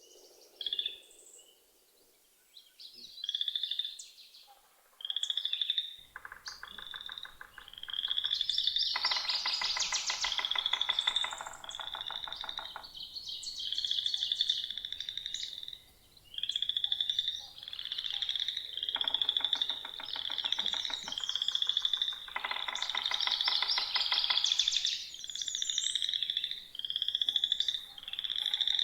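A chorus of frogs and birds in spring: a short high call repeated over and over, with loud pulsed trills several times from about six seconds in.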